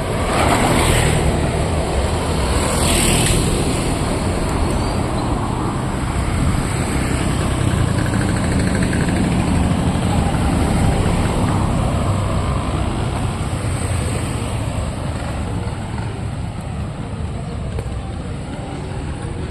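Road traffic passing, a steady mix of vehicle engines and tyre noise, with two brief louder passes near the start.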